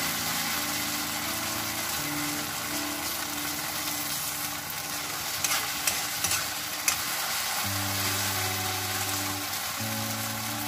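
Sliced elephant apple sizzling in hot oil in a wok as it is stirred with a metal spoon, with a few sharp clicks of the spoon against the pan.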